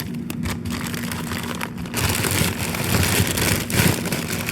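Rustling and knocking of frozen food packages being handled in an open freezer, with an even rushing noise over a steady low hum.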